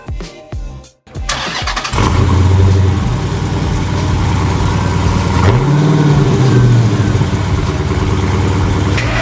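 A car engine comes in about a second in and runs loudly and steadily. A little past the middle it revs briefly up and back down.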